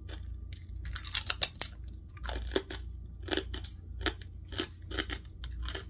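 A person chewing a crisp, freshly fried pork rind (chicharrón) with the mouth closed. A run of loud, sharp crunches comes about a second in, then steadier crunching chews about twice a second.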